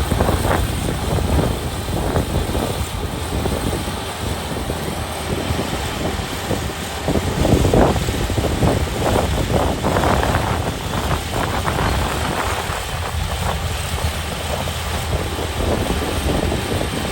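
Kubota ER572 combine harvester's diesel engine and machinery running steadily at working speed during reaping, a loud continuous drone with uneven gusty rushing on top.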